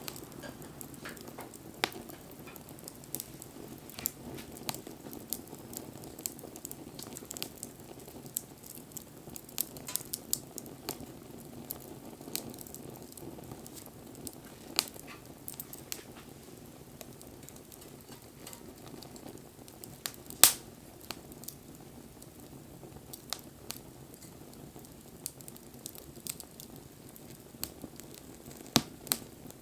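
Wood fire burning: irregular crackles and sharp pops over a low, steady rush, with the loudest pop about two-thirds of the way through and another near the end.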